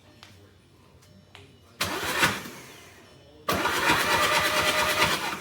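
Volkswagen Jetta engine being cranked by its starter in two tries: a short burst of cranking, then a longer one with a fast, even rhythm. The sound stops each time without the engine catching and running.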